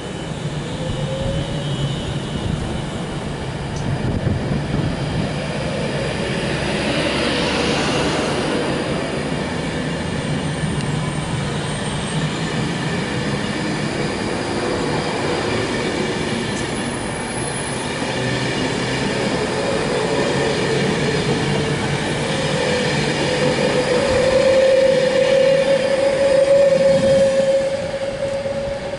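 Class 390 Pendolino electric train moving along the platform: a steady rumble of wheels on the rails, with a whine that slowly rises and is loudest near the end.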